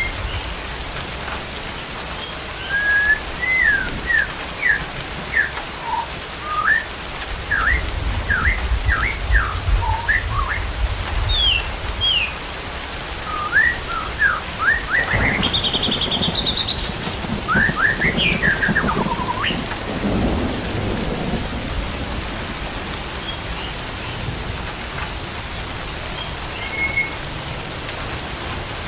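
Steady rain hissing, with a bird whistling a run of short rising and falling notes through the first two-thirds. A low thunder rumble comes in about halfway through and dies away a few seconds later.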